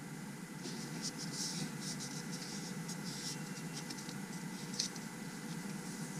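Fingers handling an adhesive film and pressing it onto the back of a phone: light scratching and rustling, with one sharper click about five seconds in.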